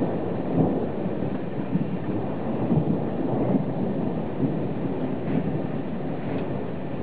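Thunder rumbling during a thunderstorm, a long low roll that eases slightly toward the end, with rain behind it.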